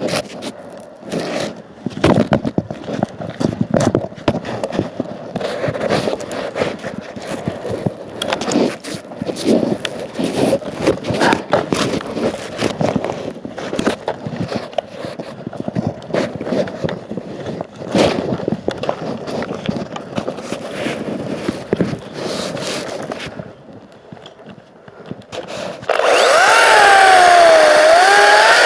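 Irregular scraping and rubbing of wood with sharp clicks. About 26 seconds in, the electric motor of a Makita 18V cordless chainsaw starts up with a loud whine, its pitch wavering as it takes the load of the cut.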